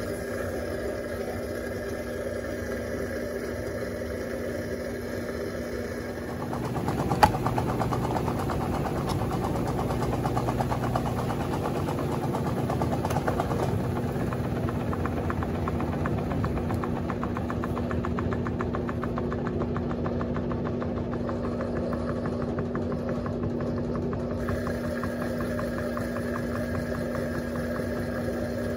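Electrolux Turbo Compacta 7 kg top-loading washing machine running its wash cycle with a steady motor hum. About seven seconds in there is a sharp click and the machine's sound grows louder and busier, then it runs on steadily.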